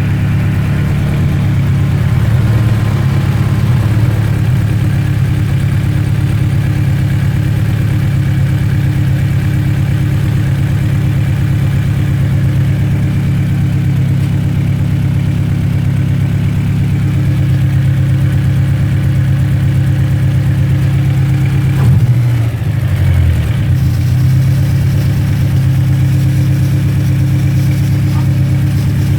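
Honda Ballade engine idling warm, the sound recorded to show the noise from its timing chain tensioner. The engine note dips and wavers briefly about 22 seconds in, then settles back to a steady idle.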